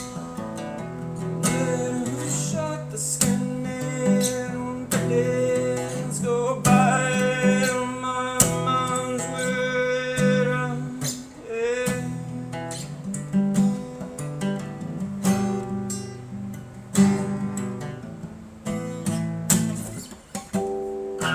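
Acoustic guitar playing a blues, plucked and strummed, without a break.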